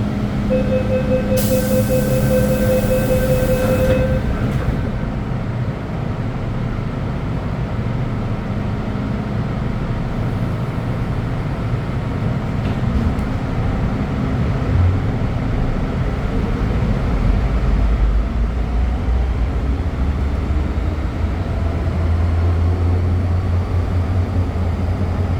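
MTR Tseung Kwan O line M-train: a steady tone and a hiss sound for about three seconds near the start, then the train's running noise, a low rumble that grows louder near the end.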